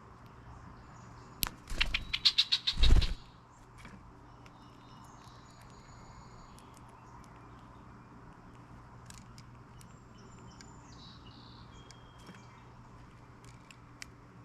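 Birds at a feeder chirping faintly, with a loud close burst of rapid pulses about two seconds in that ends in a low thump.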